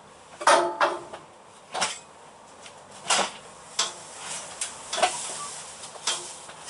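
Metal tools clinking and knocking as they are handled, about seven separate strikes, the first a ringing clank about half a second in.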